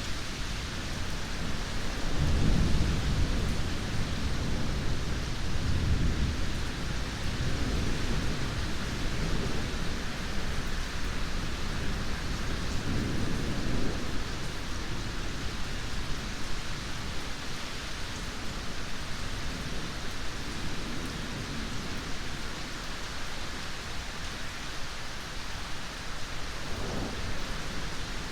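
Steady heavy rain falling, with rolling thunder rumbling low about two seconds in and again around twelve seconds in, and a short faint rumble near the end.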